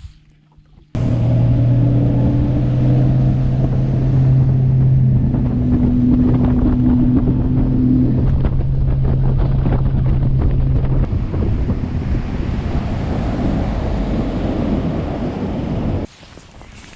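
Outboard motor of a fishing boat running at speed, a steady engine hum under heavy wind noise on the microphone and rushing water. The sound starts suddenly about a second in and cuts off suddenly near the end, and the engine hum sinks under the wind noise in the later part.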